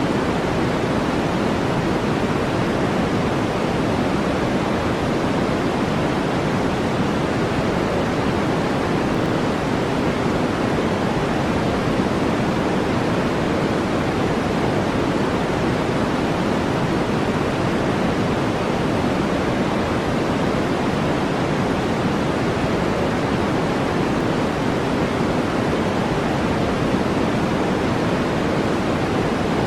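Steady synthetic noise for relaxation, deeper than white noise, with no changes in level or character.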